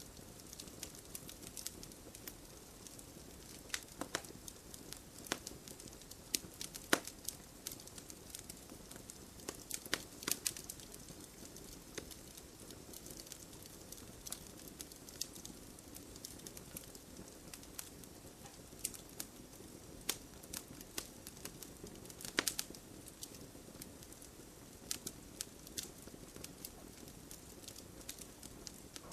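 Wood campfire crackling: a steady low hiss of burning with frequent irregular sharp pops, a few louder snaps standing out about 7 and 22 seconds in.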